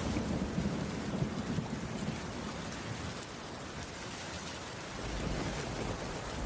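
Steady rain falling on a wooden roof. A low rumble swells in the first couple of seconds and again near the end.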